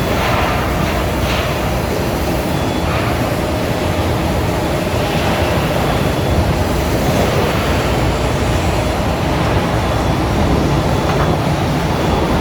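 Heavy truck driving with a heavy load: steady engine and rolling rumble.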